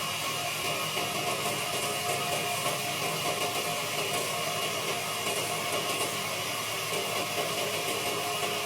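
Wood lathe running at a steady speed, a constant hum with a few steady tones over a hiss.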